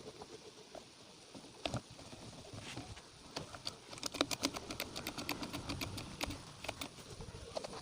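Scattered light clicks and taps, then a quick, uneven run of ticks from about four seconds in.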